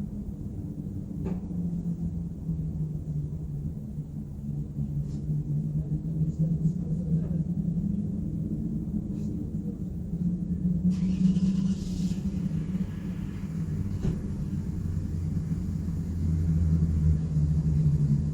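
City street traffic at night: a steady low engine rumble, with a brief hiss about eleven seconds in and a deeper rumble near the end.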